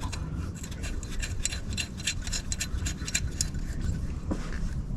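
Light, irregular clicking and ticking of metal hand tools being worked, over a low rumble.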